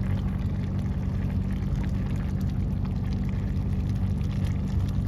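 A parked car's engine idling with its climate fan blowing, heard from inside the cabin: a steady low hum under an even rushing noise.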